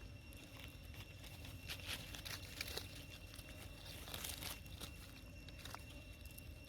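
Scattered crinkling, crackling and crunching noises, in clusters about two seconds in and again about four seconds in, over a faint steady high-pitched tone.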